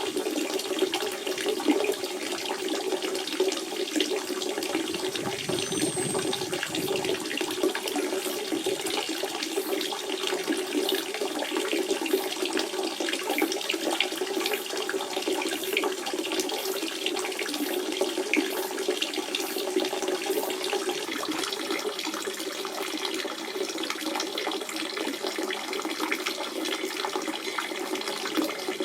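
Natural spring water running in a steady, unbroken splashing flow.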